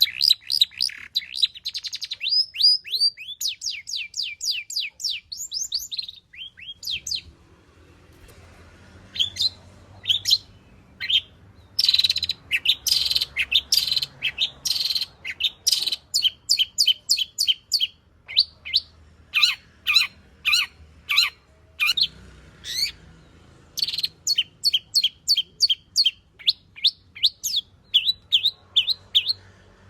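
Long-tailed shrike (cendet) singing a full-repertoire song stuffed with imitations of other birds: fast runs of sharp, high, downward-sweeping notes, several a second, broken by short pauses.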